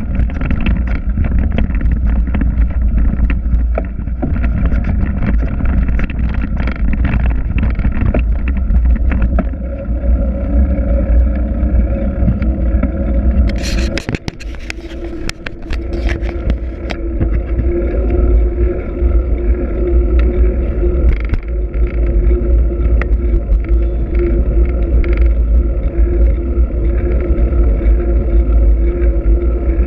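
Riding a Trek X-Caliber 8 mountain bike: wind buffets the microphone with a heavy rumble, over the rattling and clicking of the bike. About halfway through the rumble drops away for a couple of seconds with a few sharp scrapes, then a steady low hum runs on.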